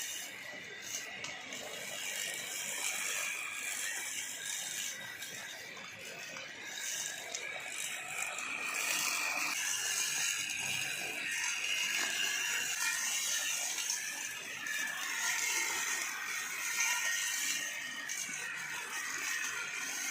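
An old lawn mower working with a continuous mechanical clatter of clicking and rattling.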